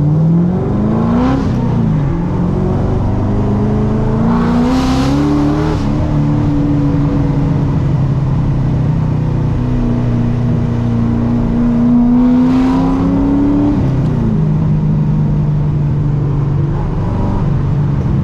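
Car engine pulling hard through the gears: the pitch climbs, falls sharply at upshifts about a second in and about six seconds in, climbs slowly again, and falls once more near fourteen seconds.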